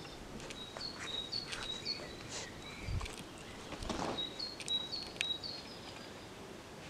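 Outdoor ambience with a songbird chirping in two runs of quick, high, short notes. A few sharp clicks and a dull thump about three seconds in come from close by.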